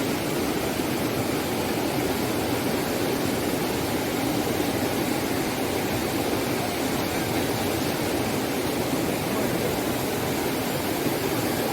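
Steady rush of river water pouring over rocks at a small waterfall, an even wash of noise with no change throughout.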